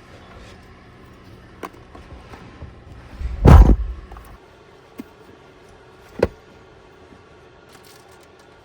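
A truck door slamming shut once, loud and heavy, followed a few seconds later by a single sharp knock.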